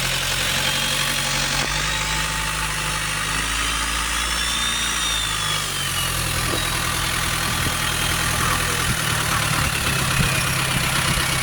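Boat engine running steadily, its note shifting slightly about halfway through.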